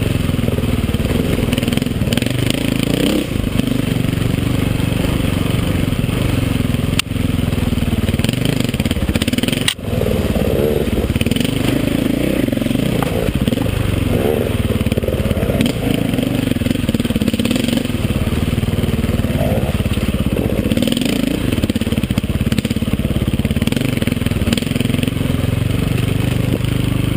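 KTM 450 EXC's single-cylinder four-stroke engine revving up and down under load as the dirt bike is ridden off-road, heard close from an on-bike camera. Wind and the rattle of the bike over rough ground run under it, and the sound drops out briefly twice about a quarter and a third of the way in.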